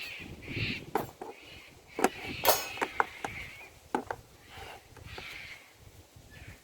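Firewood being worked, with about five sharp knocks of wood spread over several seconds.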